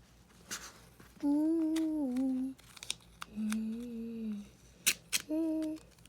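A child humming a tune in three held notes, the first sliding down a little and the second lower. A few short scratchy clicks and rips come between the notes.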